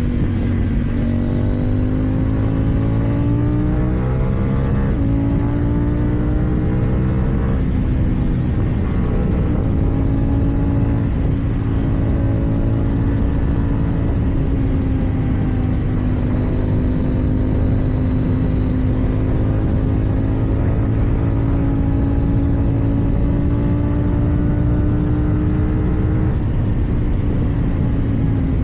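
KTM Duke 790's parallel-twin engine with an Akrapovic exhaust, riding under way: the revs climb and drop at gear changes several times in the first ten seconds, then hold a fairly steady cruising pitch with gentle rises and falls.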